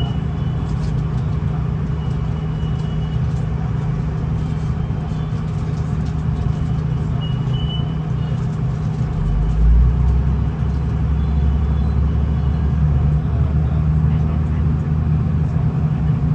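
V/Line VLocity diesel railcar under way, with a steady low engine hum and wheel-on-rail rumble. About nine and a half seconds in, a deeper engine note comes in and the sound gets louder as the diesel works harder.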